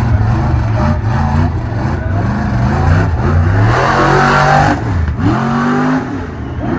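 Rough-course race truck's engine revving hard, its pitch climbing and falling as the throttle works. It is loudest about four seconds in with a rush of noise, drops off suddenly near five seconds, then climbs again.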